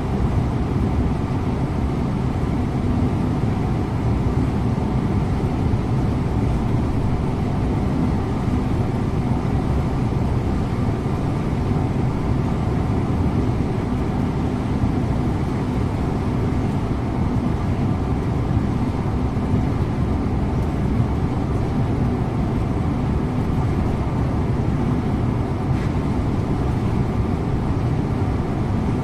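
Scania InterLink coach driving at a steady pace: a constant low engine drone mixed with tyre and road noise, with no changes in pitch or level.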